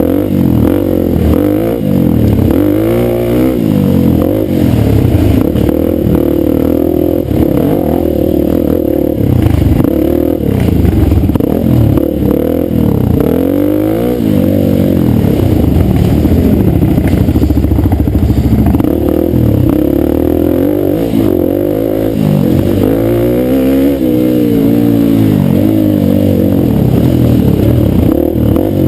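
Dirt bike engine being ridden hard, its pitch rising and falling again and again as the throttle opens and closes and the gears change.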